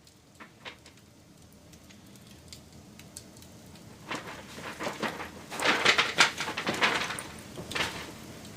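Wood fire crackling, faint at first and slowly swelling, with scattered pops and then a dense run of loud crackles in the middle and a last few pops near the end.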